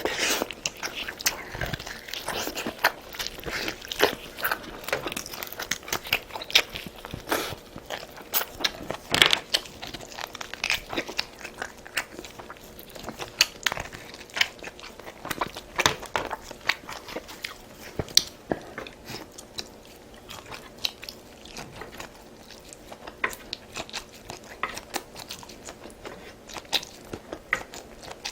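A person chewing and crunching food, with many short, irregular wet clicks and crackles; the bites come thick and fast at first and thin out over the last third.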